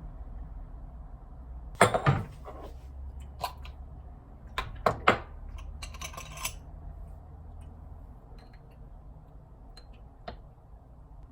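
Sharp clicks and clatters of small hard objects being handled, loudest about two seconds in and again around five seconds, over a low steady hum that stops about eight seconds in.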